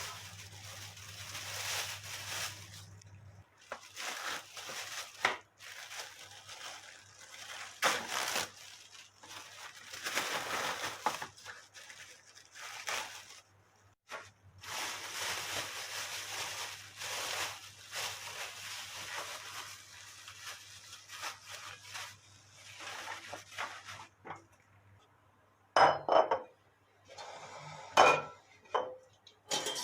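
Kitchen work sounds: utensils scraping and knocking against dishes and pots, with several sharp, loud clinks near the end.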